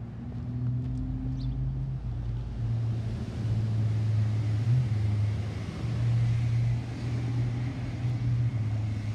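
Car engine idling, heard from inside the cabin as a steady low hum, with a broad hiss that builds about two seconds in.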